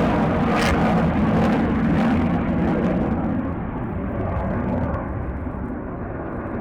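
Jet aircraft engine noise, a rumbling roar that fades steadily as the plane climbs away, its higher frequencies dying off first.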